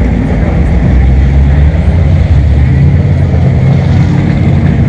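Dodge Challenger Hellcat's supercharged 6.2-litre V8 exhaust running loud and steady, with a deep, low engine note.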